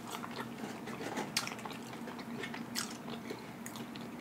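Close-miked mouth sounds of a person chewing French fries with ketchup: soft, wet chewing with small clicks and smacks, two of them sharper about a second and a half in and near three seconds.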